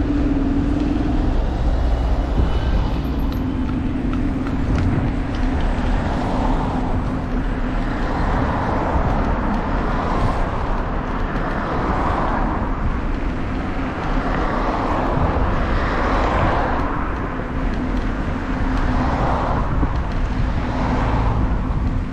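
Steady road and wind noise from a moving bicycle: a low rumble with a constant hum and a rushing sound that swells and fades every couple of seconds.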